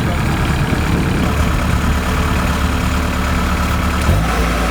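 Kubota DC70 combine harvester's diesel engine running steadily; its low note changes abruptly about four seconds in.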